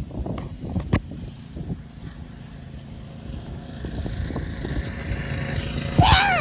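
Dirt bike engine running in the distance, growing louder as the bike comes closer, with a few knocks early on and a short high cry near the end.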